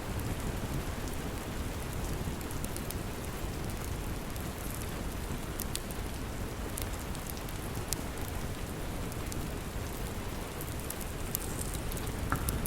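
Steady rain, a constant rushing hiss weighted toward the low end, with scattered sharp crackles and pops from a wood fire.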